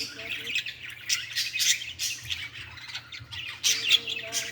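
Birds chirping and squawking in quick, repeated short calls, louder near the end.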